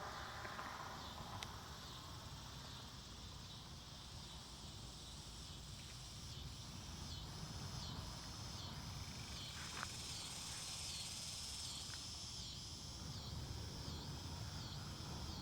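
Insects calling in the woods in regular high-pitched pulses, a little more than one a second, starting about six seconds in. Underneath is a steady low rumble of wind.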